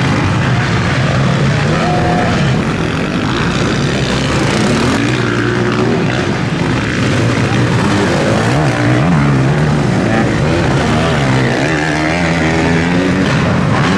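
Several motocross bikes' engines running hard on the track, their pitch repeatedly rising and falling as the riders rev through the gears and back off.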